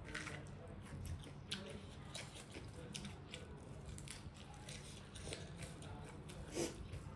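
Close-miked eating sounds: a person chewing a mouthful, with scattered soft clicks, smacks and small crunches, the loudest about six and a half seconds in.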